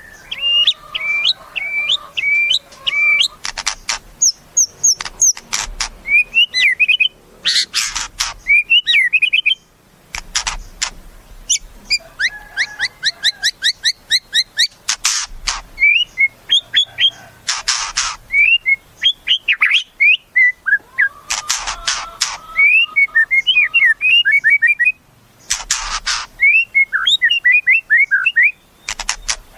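White-rumped shama (murai batu) singing a loud, varied song. Clear whistled notes and fast trills are mixed with repeated harsh, rasping notes.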